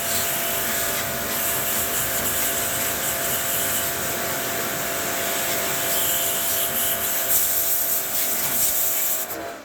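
Steady rushing, hissing machine noise with a faint steady hum underneath, cutting off suddenly near the end.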